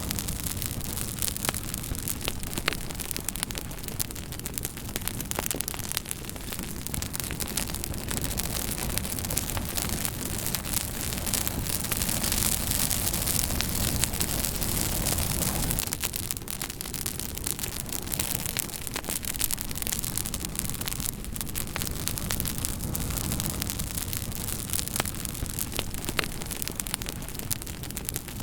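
Campfire burning: a steady hiss of flame with dense, irregular crackles and pops from the burning wood, swelling a little louder for a few seconds near the middle.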